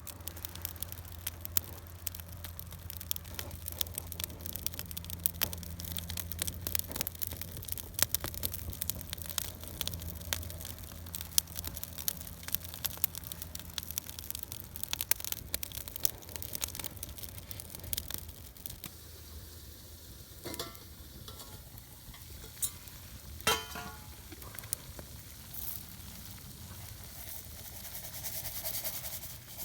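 Meat sizzling on a grill over a campfire, with dense crackling; the sizzle thins out after about eighteen seconds, leaving a few scattered knocks.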